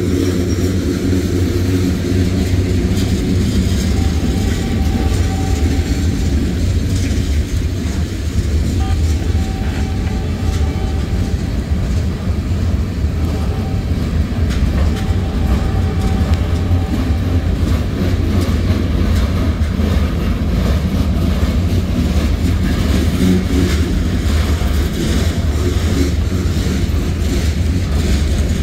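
Freight cars of a Norfolk Southern manifest train rolling steadily past: a low rumble of steel wheels on rail with light clicking from the wheels. A faint thin whine comes and goes three times.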